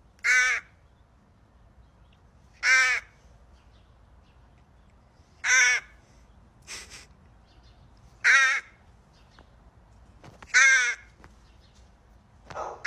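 A bird cawing five times, one short harsh call about every two and a half seconds.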